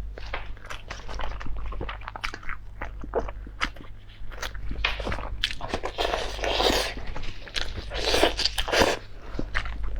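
A person eating close to the microphone: chewing and biting, with many short crunching clicks and two longer noisy stretches about six and eight seconds in. A steady low hum runs underneath.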